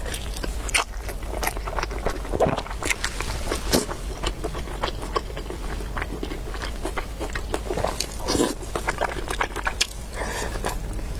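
Close-miked eating sounds: chewing, slurping and mouth smacks come as many short, irregular clicks and squelches over a steady low hum.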